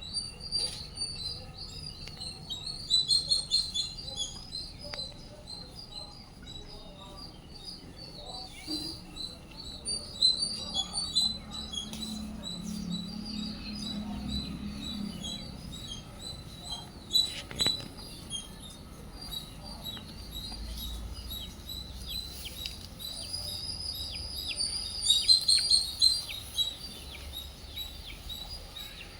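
Small birds chirping and twittering in a dense, continuous chorus of short high-pitched calls, with louder flurries near the start, in the middle and near the end. A single sharp click partway through.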